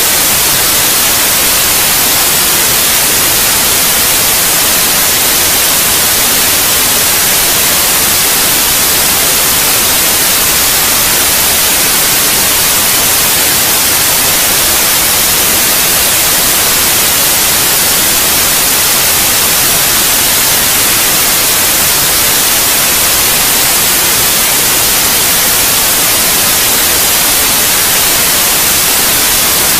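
Steady white noise: a loud, even hiss that never changes, strongest in the treble.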